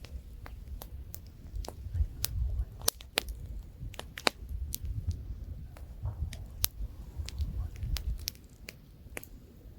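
Wood campfire crackling, with sharp irregular pops and snaps, over a low rumble of light wind.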